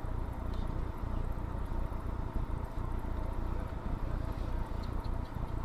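Steady low rumble of a vehicle driving, with road and engine noise.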